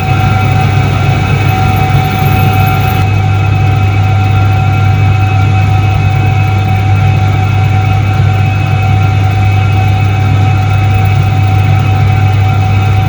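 A 1978 Soviet Iset-3 washing machine running: a steady, loud motor hum with a strong low drone and several constant higher-pitched tones over it.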